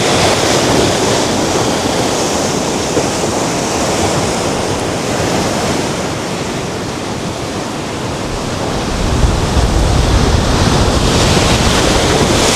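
Atlantic surf breaking and washing on the shore, a steady wash of noise, with wind on the microphone. It gets louder, with more low rumble, from about nine seconds in.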